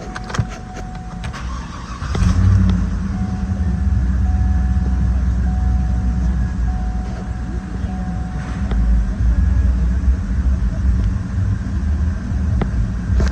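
A 2012 Cadillac Escalade's 6.2L V8 starting about two seconds in, then running at a steady idle. A thin electronic chime tone sounds on and off over the engine.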